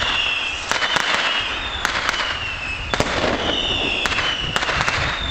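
Fireworks display: a rapid string of whistling fireworks, one whistle about every second, each falling slightly in pitch, with sharp cracks and pops between them over a constant fizzing of fountains.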